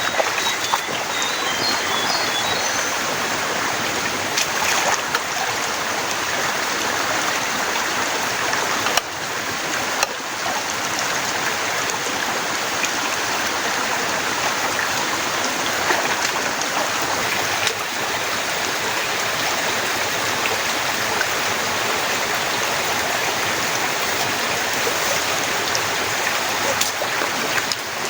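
Heavy rain falling steadily, an even dense hiss with a few faint ticks.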